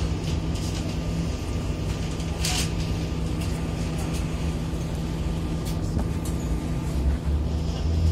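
RER D electric commuter train pulling out of the station: a steady low hum and rumble, with a short hiss about two and a half seconds in.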